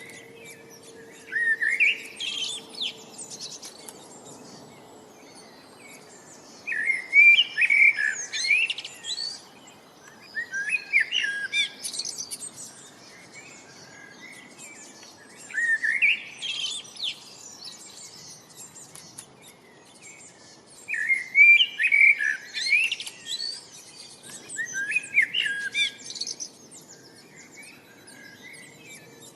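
A songbird repeating a short, quick song phrase of chirps and rising notes every four to five seconds, with softer chirps in between.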